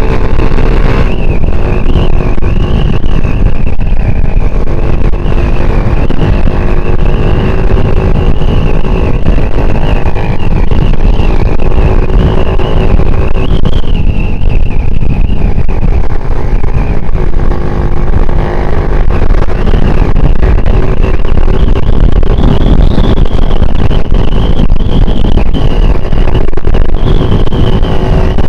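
Small Yamaha single-cylinder motorcycle engine running, loud and steady, close to the microphone.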